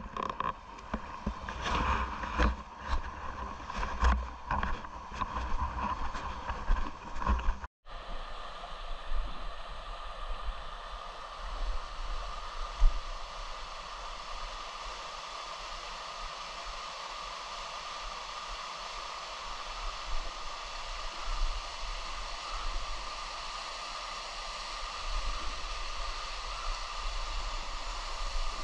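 Steady rushing water of a waterfall pouring into a stream. For the first eight seconds, irregular knocks and rustles sound over it; then the sound cuts off sharply and resumes as an even rush.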